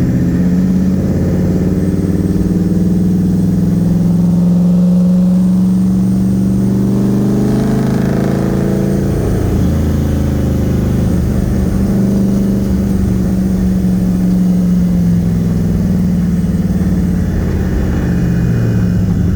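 Nissan VK56 twin-turbo V8 running under way, heard from inside the car's cabin, a steady engine note that dips and climbs again about eight seconds in.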